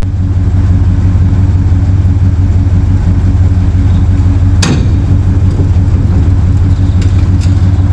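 Motor vehicle engine running at a steady speed, a loud, even low drone, with one sharp click about four and a half seconds in.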